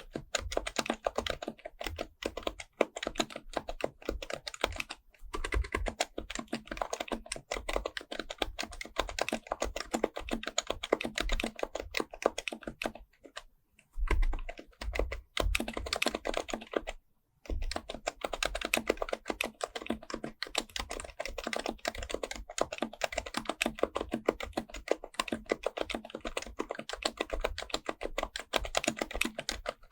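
Fast, continuous typing on an HHKB Professional Type-S keyboard with Topre electrostatic capacitive switches: a dense run of keystrokes, with brief pauses about 5, 13 and 17 seconds in.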